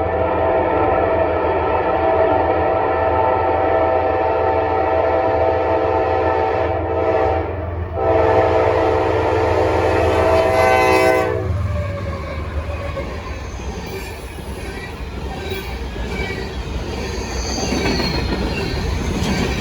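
Freight train's lead diesel locomotive sounding its multi-chime air horn: a long blast, a brief break about eight seconds in, then a second blast that stops about eleven and a half seconds in. The train rumbles on as it passes.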